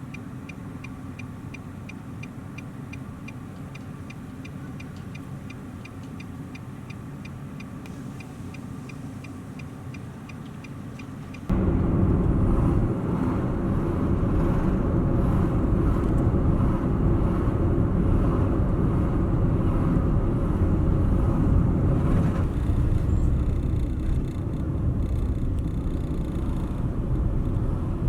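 Car driving, heard from the car: at first a quiet cabin with a low hum and a fast, regular ticking, then about eleven seconds in the sound jumps suddenly to a loud, steady rumble of road and engine noise.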